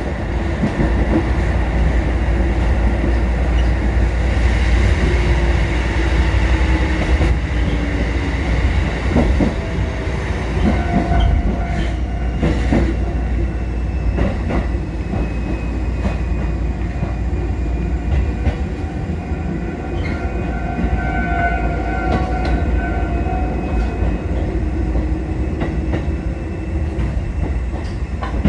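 Kotoden 1080 and 1100 series electric train running at speed, heard from inside the leading car: steady rumble of wheels on rail with occasional clacks over rail joints and a steady whine from the running gear.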